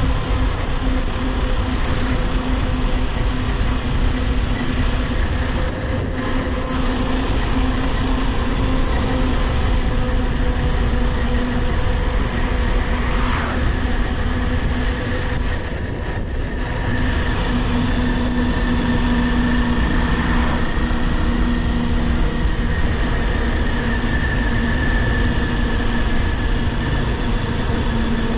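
Kawasaki Ninja 400's parallel-twin engine running steadily under way, mixed with wind and road rush. The engine note eases briefly twice, about six and about sixteen seconds in.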